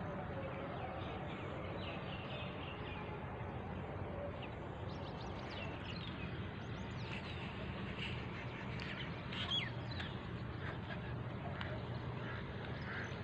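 Birds chirping and calling again and again over a steady low background noise, the calls coming thickest from about halfway through.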